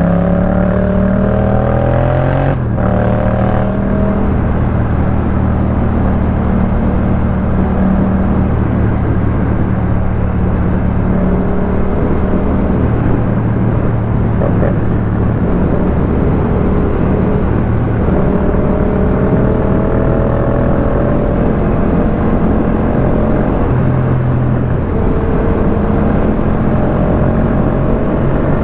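Yamaha MT-07's parallel-twin engine through a Jeskap K4 full aftermarket exhaust, running steadily while riding. There is a brief break in the note about two and a half seconds in, and the pitch climbs slowly near the end.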